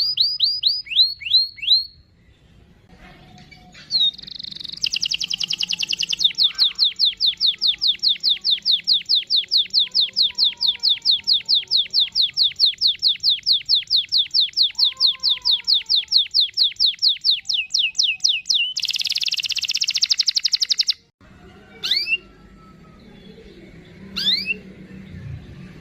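Domestic canary singing: a few falling chirps, a short pause, then a long, even, rapid trill of repeated notes lasting about fourteen seconds. This runs into a faster, buzzier roll of about two seconds that stops suddenly, followed by a few single rising chirps.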